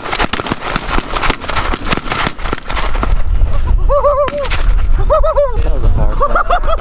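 A volley of shotgun fire from many shooters at once: rapid, overlapping shots for about the first three seconds, then a single late shot. Geese honk over a steady low rumble after the shooting stops.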